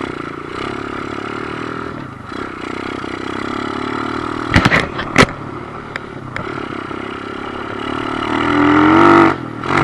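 2008 Kawasaki KLX110 pit bike's small single-cylinder four-stroke engine running under way on ice. A few sharp knocks come about five seconds in, then the engine revs up to its loudest near the end before dropping back.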